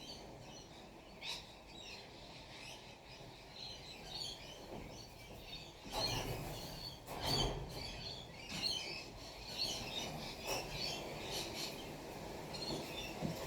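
Wild birds chirping and twittering in a dense run of short, high calls. A few dull knocks or bumps sound over them, the loudest about six and seven seconds in.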